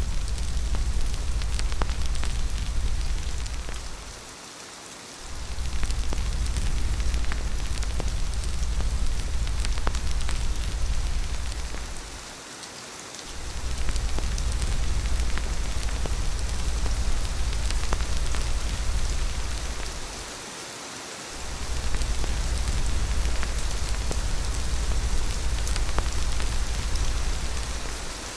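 Steady rain falling, with a deep wind rumble underneath that drops away for about a second three times, and scattered sharp ticks through the hiss.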